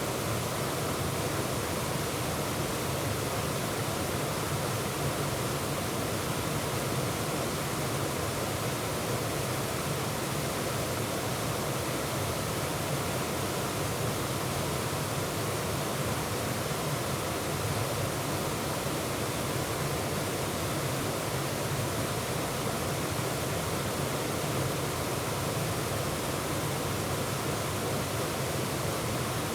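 Bear's Den Falls, a woodland waterfall, pouring steadily: a constant, even rush of falling water that never changes.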